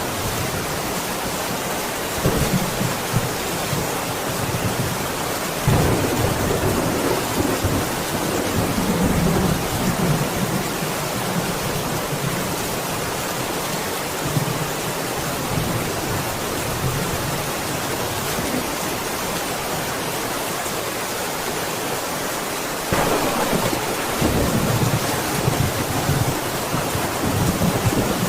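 Steady heavy rain hissing, with thunder rumbling low several times: a swell about six seconds in that rolls on for a few seconds, and another starting abruptly near twenty-three seconds.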